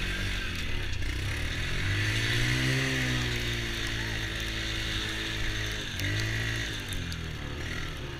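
Small ATV engine running, revving up and easing back about two to four seconds in, then briefly revving up again around six seconds in.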